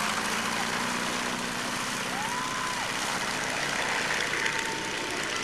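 An engine running steadily, a low drone under a broad rushing noise, with a short whistle-like tone about two seconds in.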